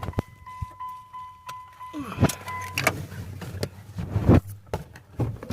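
A steady high electronic tone, like a vehicle warning chime, sounds for about the first half and stops near the three-second mark. Scattered clicks and knocks of something being handled follow it.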